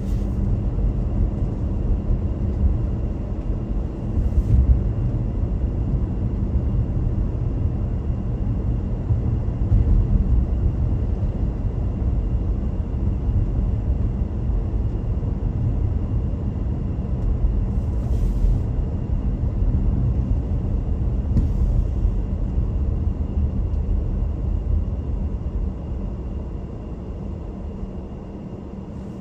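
Car driving along a road: a steady low rumble of tyres and engine, with a few brief high hisses, easing off slightly near the end.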